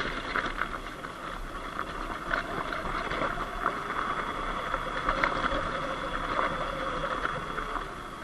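Surron Light Bee X electric dirt bike riding over a loose dirt and gravel road: tyres crunching over stones with many small clicks and knocks, over a steady high electric whine.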